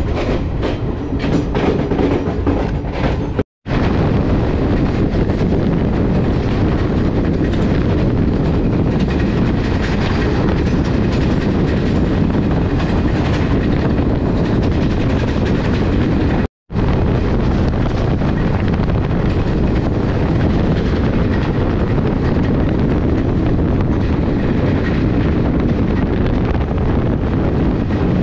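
Garib Rath Express passenger train running at speed, heard from aboard: a steady rumble of wheels on rail, with a run of clickety-clack over rail joints in the first few seconds. The sound cuts out completely for a moment about three and a half seconds in, and again about sixteen seconds in.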